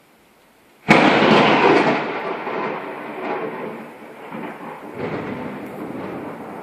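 A sudden, loud thunderclap about a second in, rumbling on and fading over the next few seconds, with a second swell of rumbling near the end.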